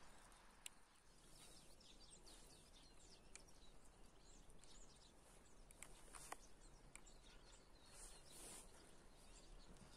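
Near silence with faint, scattered bird chirps over a low background hiss, and a few soft clicks.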